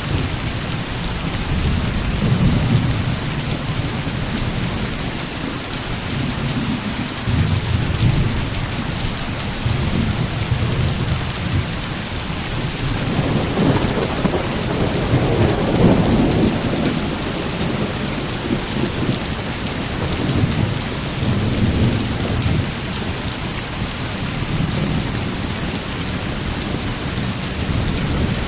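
Heavy rain falling steadily, with thunder rumbling low underneath and a louder, longer rumble of thunder about halfway through.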